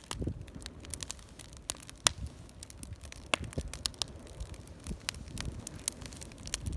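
Wood bonfire crackling, with irregular sharp pops and snaps.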